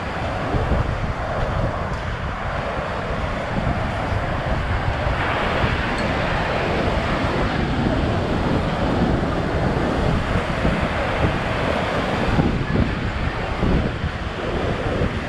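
Ocean surf breaking and washing up the beach under steady wind buffeting the microphone, with a louder wash about a third of the way in.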